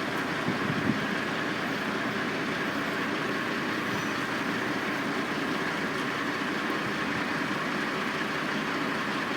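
Steady drone of construction machinery and diesel engines running at a building site, with a short knock about a second in.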